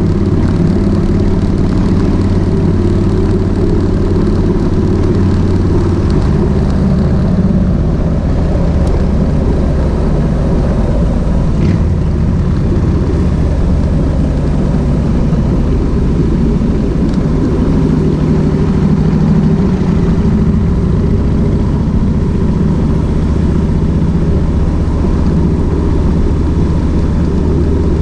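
Kawasaki VN1600 Mean Streak's V-twin engine running steadily while the motorcycle is ridden, its note shifting about six seconds in.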